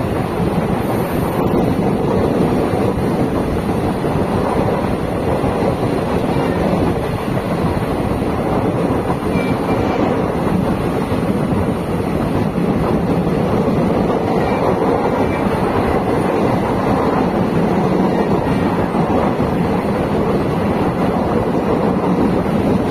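Steady running noise of an Indian Railways express passenger coach on the move, heard from aboard: a constant rumble of wheels on rail.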